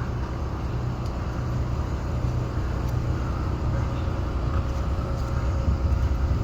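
Motor vehicle engine running with a steady low rumble, growing slightly louder toward the end.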